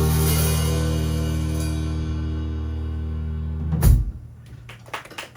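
A band's final chord rings out with drums and cymbal and slowly fades, closed by a last sharp hit about four seconds in. Scattered applause from a small audience follows.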